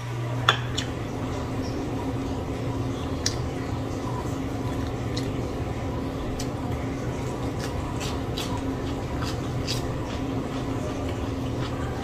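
Chewing of fish-sauce fried chicken wings, with scattered sharp clicks, the loudest about half a second in, over a steady low hum.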